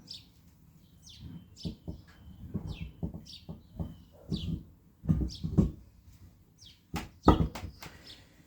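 A small bird chirping over and over in short falling chirps, over scattered knocks and clunks of heavy metal parts being handled on a bench. The loudest is a sharp knock about seven seconds in.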